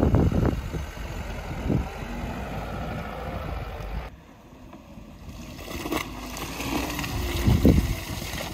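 Lada Niva's four-cylinder engine running under load as the car crawls through deep mud ruts, with occasional knocks from the wheels and suspension. The sound drops away suddenly about four seconds in, then builds again.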